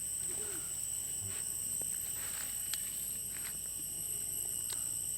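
Steady chorus of insects, crickets or cicadas, holding a few high, even tones, with a few faint clicks and taps.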